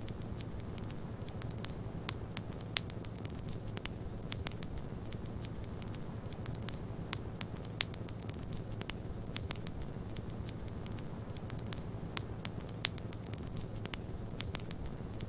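Fireplace wood fire crackling, with irregular sharp pops (a few louder ones), over a steady low rumble and hiss of a snowstorm wind.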